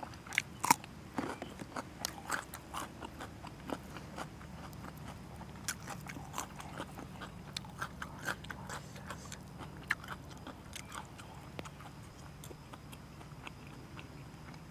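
Close-miked eating: a couple of sharp crunching bites into fresh green chili in the first second, then steady chewing with small crunches and clicks as she eats fermented pork (naem) and chili.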